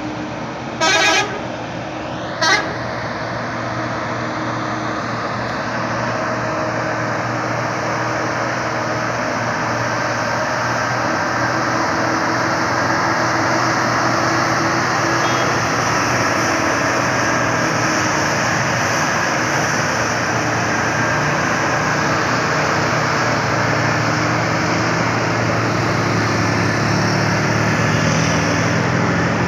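A truck horn sounds twice about a second in, the first blast half a second long and the second brief. Then a heavy truck engine runs steadily under load on a steep uphill grade, growing slowly louder.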